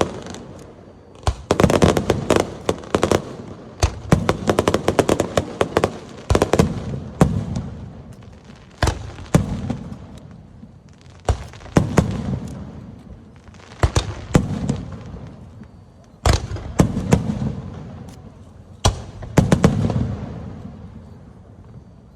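Aerial fireworks display: shells bursting one after another every second or two, some as a single sharp bang, others as a dense cluster of crackles, each followed by a low echoing rumble that fades away.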